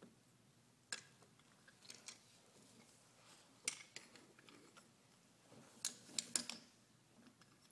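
Toy train pieces being handled: a few light, sharp clicks and clacks at irregular intervals, with a small cluster of three near the end.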